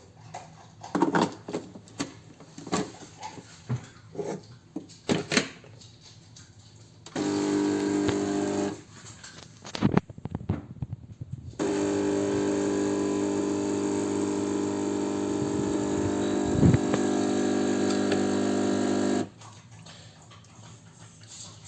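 De'Longhi Dedica EC685M espresso machine's vibratory pump buzzing steadily, first briefly for about a second and a half, then again for about seven and a half seconds. Before it come scattered clicks and knocks.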